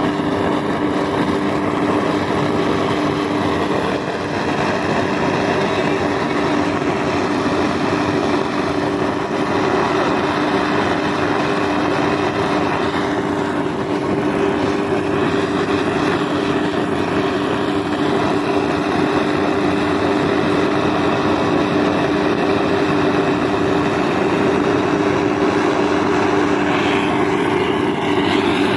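An engine running steadily, with a constant hum of two close pitches over a wide noise of machinery.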